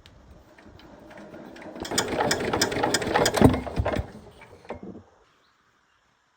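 A small machine or motorised tool running with a fast clattering rattle. It builds up over the first two seconds, runs loudest for about two seconds, then dies away about five seconds in.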